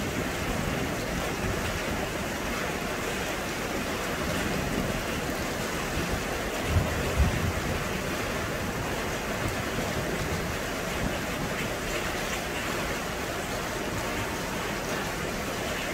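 Steady rain, an even hiss, with two brief low thumps about seven seconds in.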